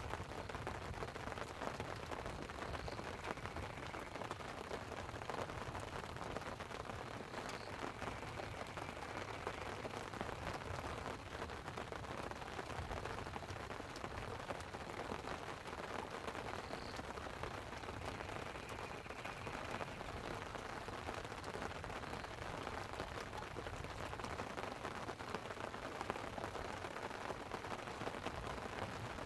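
Light rain falling on a tent, a steady hiss dotted with many small sharp drop ticks, over an even rushing background.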